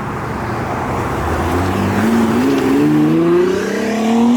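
Heavily built Nissan GT-R, around 1600 horsepower, accelerating hard away, its engine note climbing steadily in pitch and getting louder.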